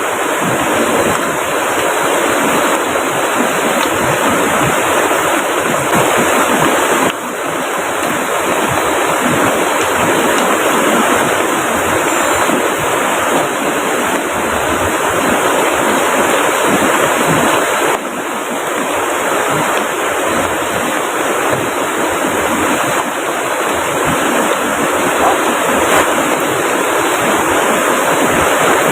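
Heavy rain falling steadily, mixed with the rush of the river beside it: a loud, dense, even hiss with no let-up.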